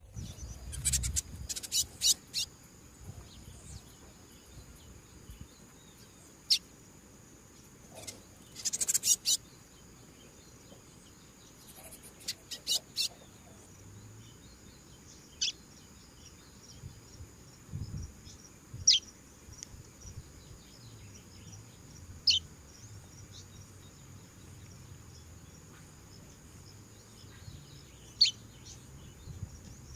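Seedeater (coleiro) giving short, sharp calls in small clusters and then singly every few seconds, over a steady high buzz of insects.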